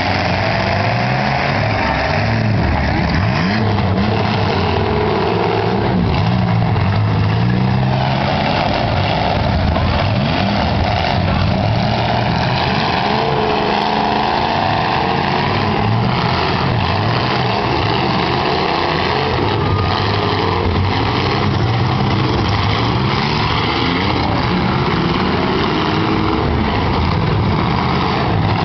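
Engines of several eight-cylinder demolition-derby cars running and revving at once, loud and continuous, their overlapping notes rising and falling.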